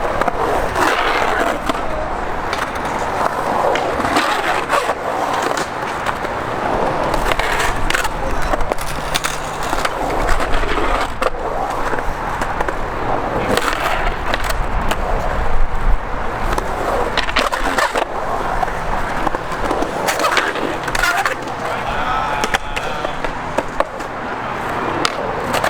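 Skateboards rolling, with many sharp clacks of boards popping and landing, and people's voices in between.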